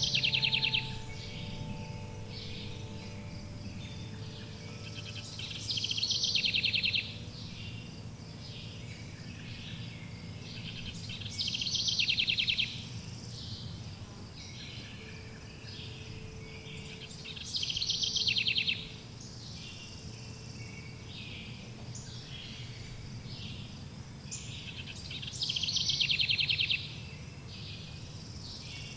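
A songbird repeats a short, rapid trilled song phrase about once every six seconds, five times in all, over a steady low background hum. A few sustained chime tones fade out in the first three seconds.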